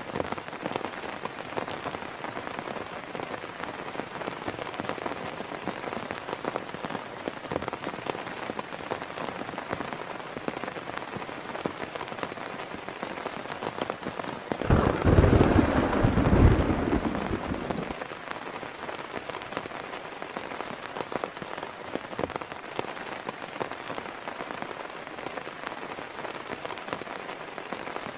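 Heavy rain falling steadily. About halfway through comes a loud, deep rumble of thunder lasting about three seconds, which stops abruptly.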